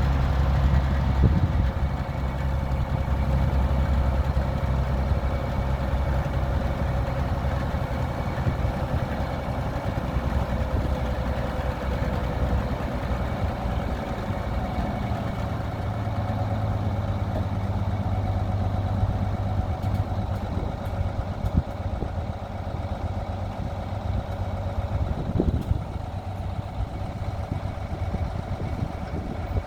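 A GMC Brigadier grain truck's engine running steadily at idle, a low even rumble.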